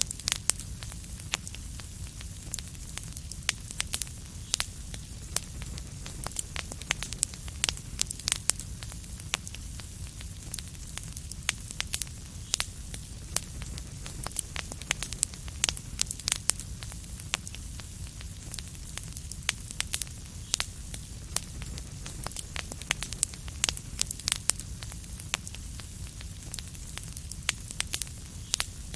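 Wood fire crackling steadily: many sharp, irregular pops and snaps over a low rumble and soft hiss.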